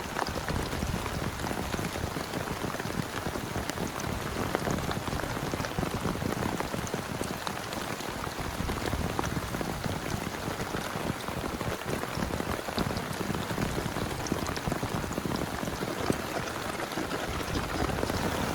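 Steady rain falling, a dense patter of many individual drops striking close by.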